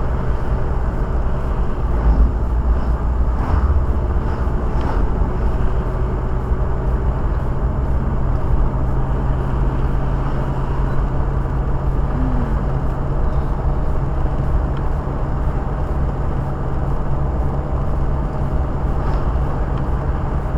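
Steady drone of a car on the move, heard inside the cabin: a constant low engine hum with road noise underneath.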